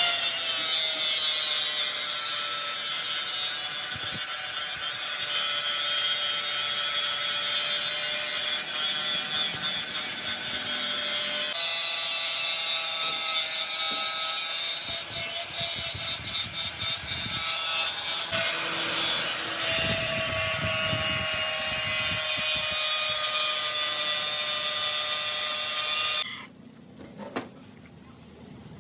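A power tool cutting or grinding metal: a steady whine over a harsh high hiss, the pitch sagging slightly now and then. It stops abruptly about 26 seconds in.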